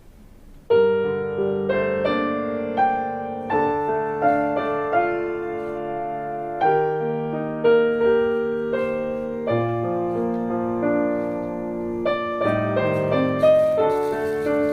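Background piano music, a slow melody of struck, sustained notes, starting a little under a second in and cutting off abruptly at the end.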